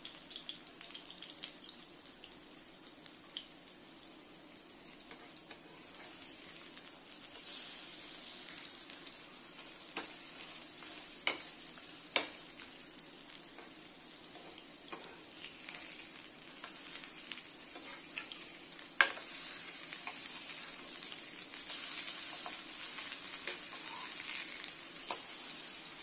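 Chicken burger patties shallow-frying in refined oil in a nonstick pan: a steady sizzle full of small crackling spits. A few sharp clicks come from a metal spatula against the pan as the patties are flipped, and the sizzle grows a little louder near the end.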